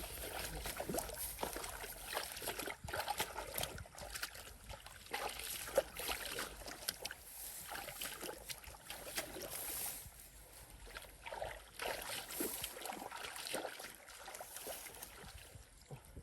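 Irregular splashing and sloshing of shallow muddy water in a rice field as people wade and grab for fish by hand.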